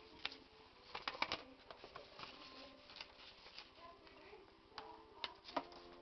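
A sheet of paper being folded and creased: crisp rustles and crackles, a cluster of sharp ones about a second in and a couple more near the end, over faint background music.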